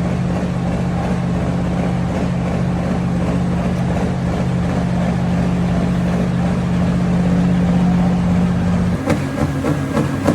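Pulling tractor's engine running loud at steady high revs, then dropping to a lower, rougher note about nine seconds in.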